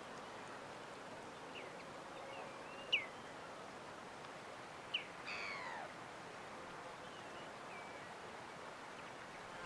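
Scattered bird chirps, short down-slurred notes every second or two, with a longer falling call about five seconds in, over a faint steady background hiss.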